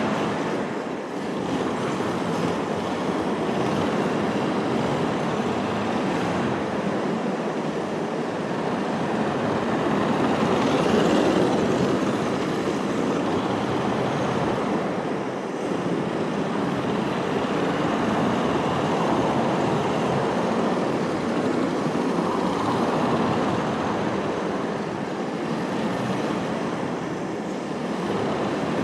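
HSP 94123 RC drift car driving, with a steady hiss of tyres and drivetrain that swells and eases every few seconds as it comes near and goes away.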